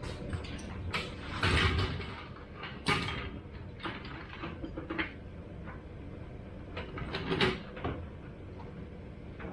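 Irregular metal clanks, knocks and scrapes from working an engine into place in a car's engine bay while lining up the mount bolts. The loudest come about a second and a half in, at about three seconds, and about seven and a half seconds in.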